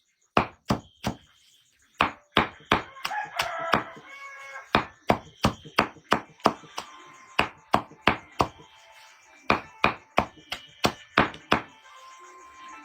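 Repeated sharp chopping strikes of a blade, about two a second in uneven runs with short pauses.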